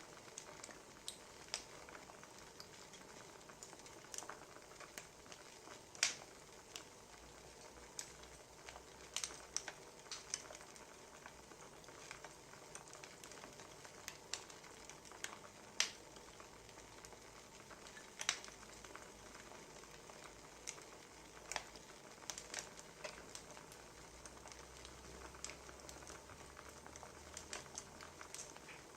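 Wood fire crackling: a faint steady hiss with irregular sharp pops and snaps, the loudest about six and sixteen seconds in.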